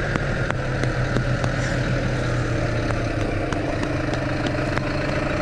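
Tractor engine running steadily, heard from inside the cab, with scattered sharp clicks and rattles.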